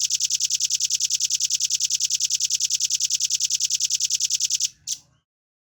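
Velvet-fronted nuthatch (red-billed nuthatch) singing a long, fast trill of sharp high notes, about ten a second, evenly spaced. The trill stops near the end and is followed by one last note.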